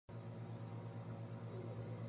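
Steady low electrical hum with faint hiss.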